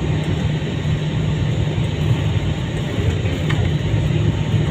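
Steady low rumble inside an airliner cabin: jet engines and airflow heard through the fuselage, even in level throughout.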